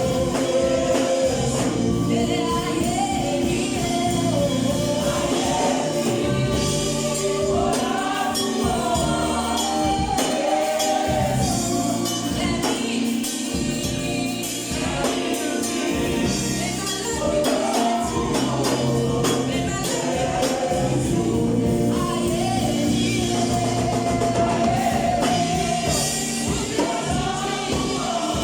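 Gospel choir singing over instrumental accompaniment with a bass line and a steady percussive beat.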